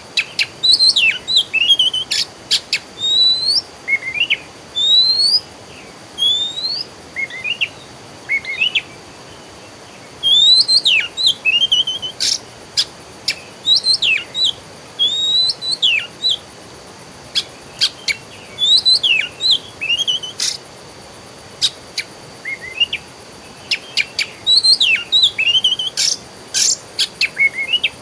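Songbirds singing: a rapid run of short whistled notes that sweep upward, repeated again and again, mixed with sharp clicking chips. A faint steady high hum runs underneath.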